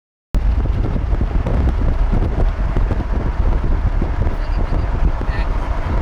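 Wind buffeting the microphone: a loud, steady low rumble that cuts in suddenly after a short silence about a third of a second in.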